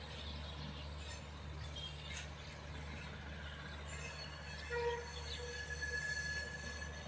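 Madgaon–LTT Express passenger train rolling away into the distance: a steady low rumble with thin wheel squeals, a short one about five seconds in and a longer one near the end.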